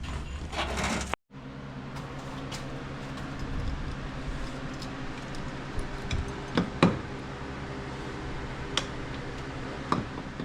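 A steady mechanical hum from a running motor, with a few sharp clicks and taps of tools or parts being handled; an edit cuts the sound off about a second in, and the hum follows the cut.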